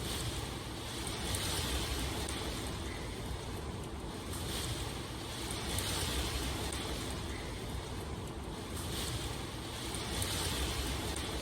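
Steady rain ambience, an even hiss over a low rumble, swelling and easing every few seconds.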